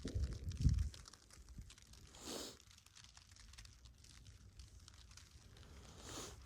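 Footsteps crunching in sticky, wet snow, with faint crackling ticks throughout and two louder crunches, about two seconds in and near the end. There is a low rumble on the microphone in the first second.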